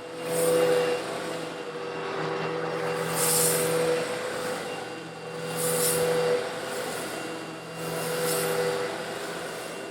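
Old Eureka vacuum cleaner running steadily while sucking up coarse stone granules, a little larger than sand. Its motor hum holds steady under a rushing hiss that surges about every two and a half seconds as the granules are drawn in and rattle through.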